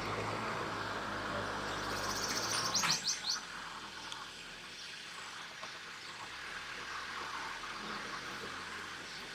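A small bird gives a quick run of high chirps about three seconds in, over a low rumble that fades soon after.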